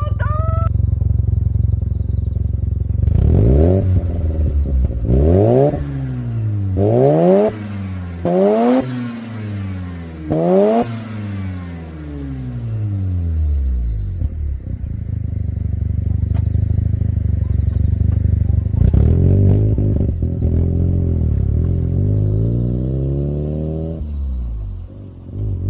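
Mazda RX-7 FC3S two-rotor rotary engine breathing through a FEED Sonic-R aftermarket exhaust, idling and then revved in five quick blips, each rising and dropping back. After a stretch of idle it is revved once more, slower and held for several seconds, before falling back to idle.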